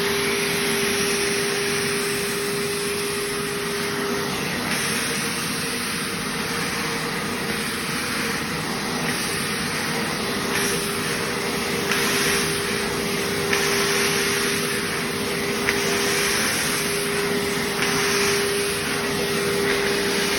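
Eureka Forbes Euroclean WD X2 wet-and-dry vacuum cleaner running at full speed: a steady motor rush with a hum whose pitch shifts slightly a few times.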